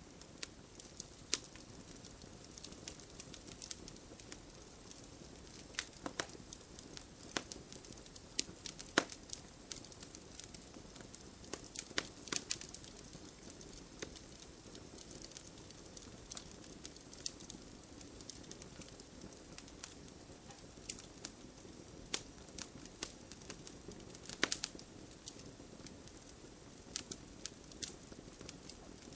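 Wood fire crackling in a fireplace: irregular sharp snaps and pops over a soft steady hiss, a few louder pops about 9, 12 and 24 seconds in.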